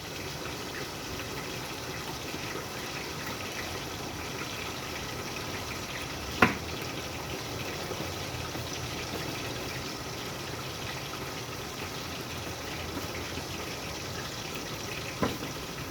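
Chicken sautéing in oil in a covered pan: a steady sizzle and bubbling of the juices under the lid. A sharp tick comes about six seconds in, and another near the end.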